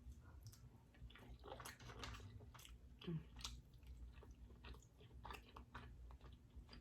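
Faint close-up chewing of king crab meat in garlic butter sauce: soft, irregular mouth clicks and smacks.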